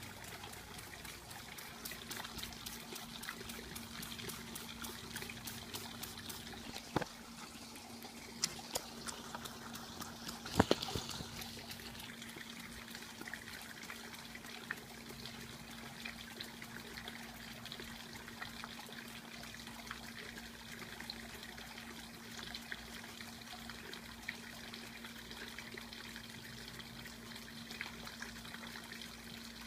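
Water trickling steadily, with a low steady hum under it. There is a run of fine ticks over the first few seconds and several sharp clicks about seven to eleven seconds in, the loudest near eleven seconds.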